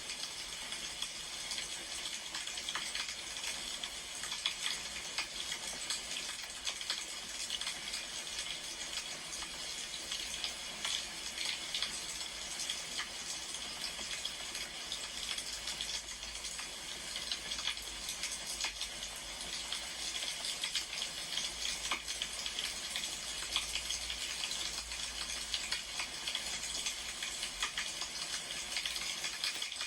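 Wood fire crackling: a steady hiss dotted with many small, irregular pops.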